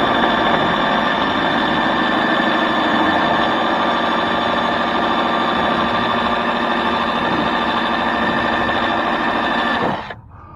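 Electric drill running steadily under load with a screw-extractor bit, boring into a seized molding screw, its motor whine held level until it stops about ten seconds in.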